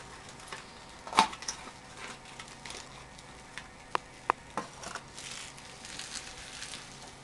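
A pit bull chewing a marshmallow Peep: scattered mouth clicks and smacks, the loudest about a second in and two sharp clicks near the middle.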